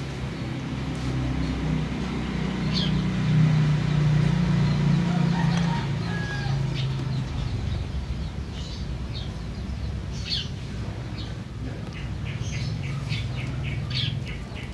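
Small birds chirping in short, repeated high calls throughout. For roughly the first half a louder low droning hum, like a passing engine, rises to a peak and then fades away.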